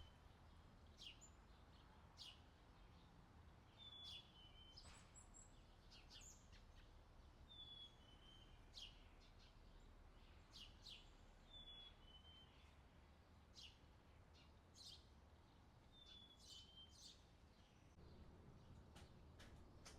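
Faint outdoor summer ambience of birds chirping: a short two-note call repeats about every four seconds among quick, high chirps, over a low steady hum.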